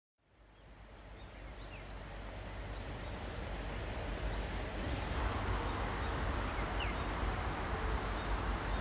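Outdoor background noise fading in from silence: a steady rushing haze with a low rumble, and a few faint short chirps a few seconds in.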